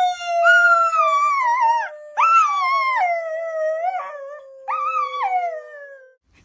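Dogs howling together: one long howl slowly falling in pitch, overlapped by three shorter, higher howls that rise and fall.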